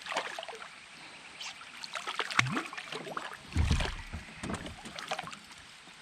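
Irregular knocks, clicks and rattles of gear being handled aboard a fishing kayak, with two duller, heavier thumps about two and a half and three and a half seconds in.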